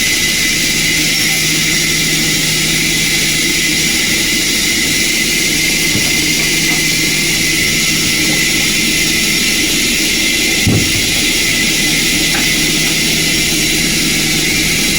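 Sawmill machinery running steadily with a loud, even mechanical noise and hum, and one short knock about eleven seconds in.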